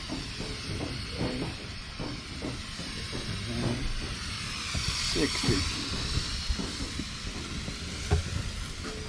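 Garden hose mist nozzle spraying a fine water mist onto dry-poured concrete mix to hydrate it, a steady hiss that swells and fades as the spray moves across the slab.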